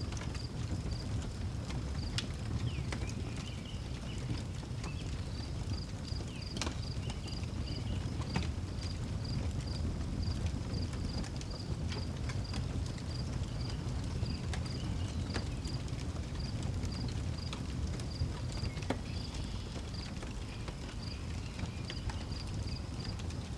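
Outdoor wood fire crackling, with sharp pops scattered through, over a steady low rumble. A cricket chirps steadily about twice a second, and a few short, higher calls come now and then.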